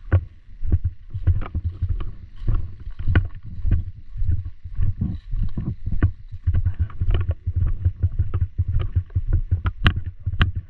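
Irregular low thumps and knocks, two to three a second, from a player moving fast with a body-mounted camera: footsteps and gear jostling the mount. A couple of sharper cracks stand out near the end.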